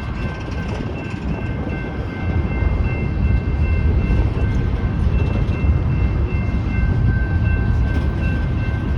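Loaded BNSF coal train rolling through the crossing: a heavy, steady rumble of wheels on the rails that grows louder about two seconds in, with thin high tones coming and going above it.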